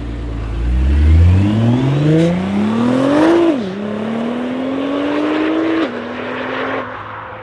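Audi RS7 C7's twin-turbo V8 with a decatted Akrapovic exhaust accelerating hard. The engine note climbs, drops at an upshift about three and a half seconds in, climbs again and drops at a second upshift near six seconds, then fades.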